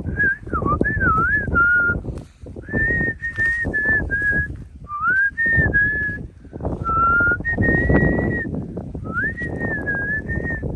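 A person whistling a tune in short phrases of held notes with slides between them, over a steady rumble of wind and handling noise on the microphone.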